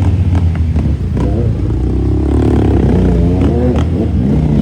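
Triumph motorcycle engine running under way, its pitch rising and falling with the throttle about halfway through, with scattered sharp clicks and knocks over it.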